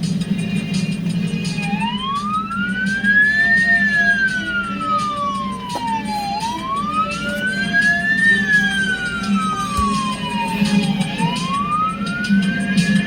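Wailing emergency siren, starting about a second and a half in. It rises quickly in pitch and falls slowly, about three times, over a steady low drone.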